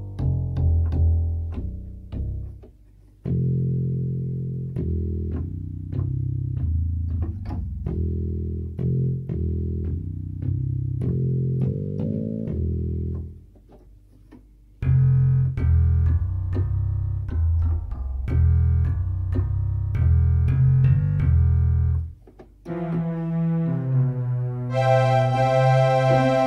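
Yamaha PSR-175 keyboard playing its preset voices: runs of low bass-register notes, stopping briefly about three seconds in, again around fourteen seconds and again around twenty-two seconds as the voice changes, with higher, brighter notes over the bass near the end.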